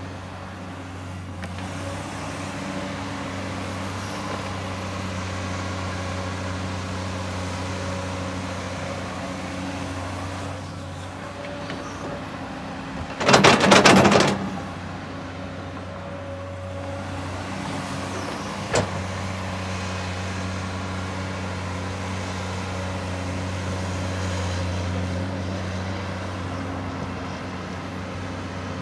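Komatsu excavator's diesel engine running steadily. About halfway through there is a loud rattling clatter lasting about a second, and a sharp single knock comes a few seconds later.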